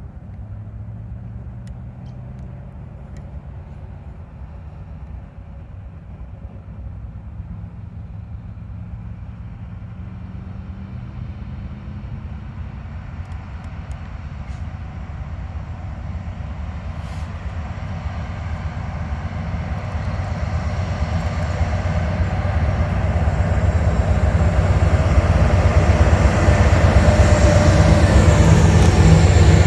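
Diesel locomotives of a manifest freight train approaching, their engines running with a steady low drone that grows steadily louder.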